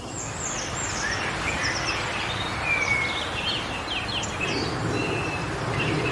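Wind blowing through forest trees as a steady rush, swelling in a gust about two-thirds of the way through, while small birds chirp and twitter in quick short calls.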